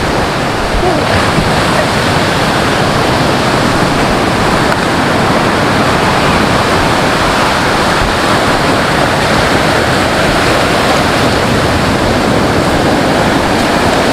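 Steady, loud rushing noise of sea surf and wind, with wind buffeting the microphone.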